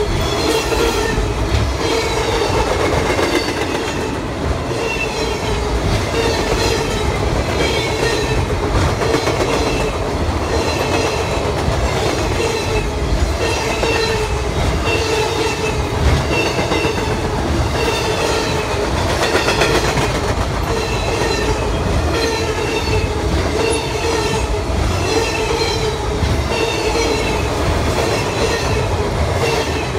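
Freight cars of a passing train, boxcars and flatcars carrying trailers, rolling by at close range. Their wheels and trucks give a steady clickety-clack over the rail joints that repeats about once a second.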